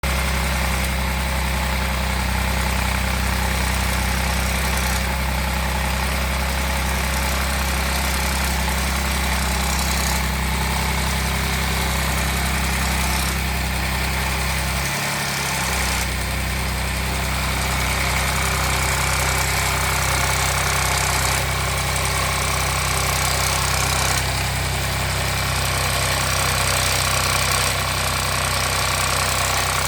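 Audi 3.0 TFSI V6 engine idling steadily, carrying an extraneous noise whose cause is not identified.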